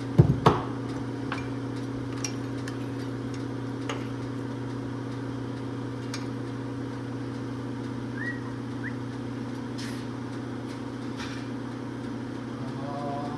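A couple of sharp metal knocks just after the start, then scattered light clicks of tools and parts being handled, over a steady low electrical hum.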